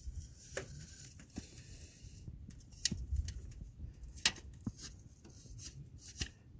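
A tape measure being handled and pushed down into deep snow: scattered sharp clicks and light rustling, irregularly spaced over a low rumble.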